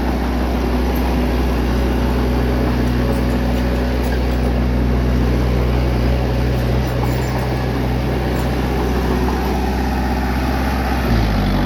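Bulldozer's diesel engine running steadily, its note dipping briefly near the end.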